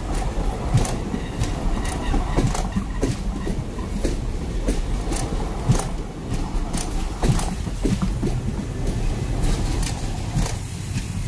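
Passenger train coaches rolling past close by: a steady rumble with many uneven knocks of the wheels clattering over the rail joints.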